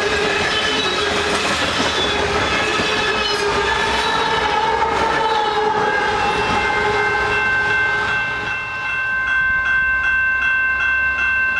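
A train passing with its horn sounding in held chords over rolling wheel noise. From about halfway in, a bell rings steadily in an even rhythm.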